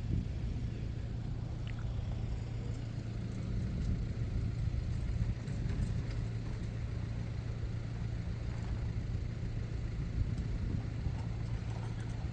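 Steady low rumble of an idling road vehicle's engine, with a constant low hum.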